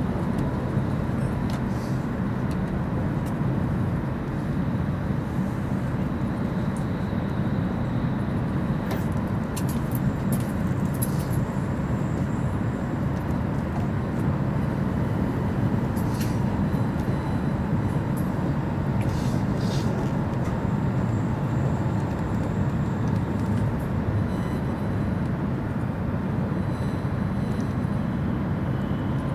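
Steady low rumble of an E5 series Shinkansen running, heard inside the passenger cabin. There is a faint steady tone over the rumble, and a few faint ticks partway through.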